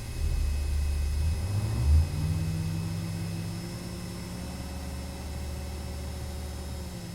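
Armoured personnel carrier's diesel engine revving up over the first two seconds, loudest about two seconds in, then running at a steady higher speed that eases off near the end.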